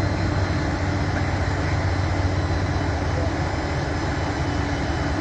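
Steady low rumble of an engine running, even and unchanging.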